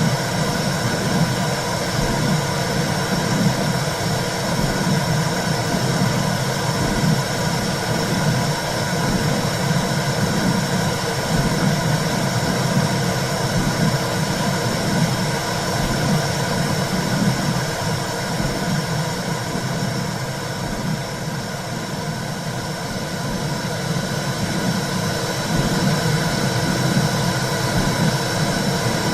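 Womb sound for soothing a baby: a steady, low whooshing rumble with a hiss over it.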